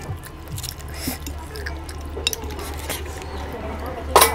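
Wet chewing and lip-smacking of a person eating curry and rice, with scattered soft clicks and one louder, sharper click near the end, over a steady low hum.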